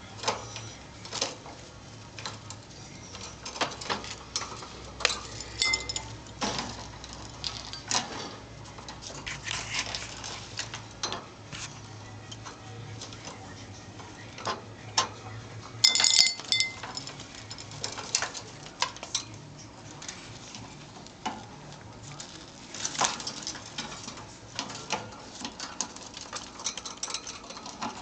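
A pet bird pecking at and tossing a toy worm, giving irregular sharp taps, clicks and scrabbling on a hard surface. There is a brief high-pitched chirp about 16 seconds in, the loudest moment, and another faint one near 6 seconds.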